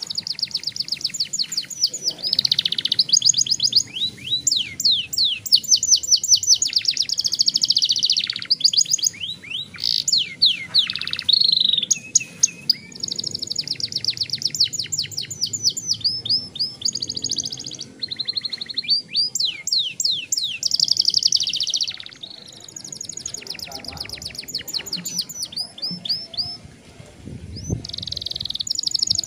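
Young domestic canary singing long rolling trills: fast runs of repeated high notes, phrase after phrase with short breaks, easing off for a few seconds before picking up again near the end.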